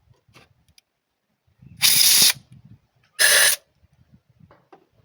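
Socket ratchet wrench clicking in two short, fast runs, each about half a second long and about a second apart, as it turns a spark plug on the Renault Twingo 1.2 16v engine.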